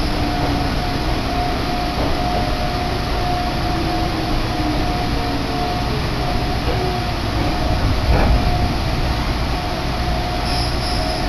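Commuter train running, heard from inside the carriage: a steady rumble with a held whine throughout and a brief louder jolt about eight seconds in.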